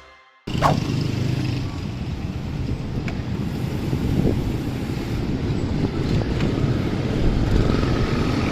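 Motor vehicle traffic on the road, a steady rumbling noise that starts abruptly about half a second in.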